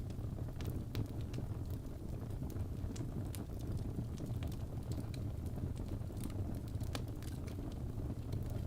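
Wood fire in a fireplace crackling: irregular sharp snaps and pops over a steady low rumble of the burning logs.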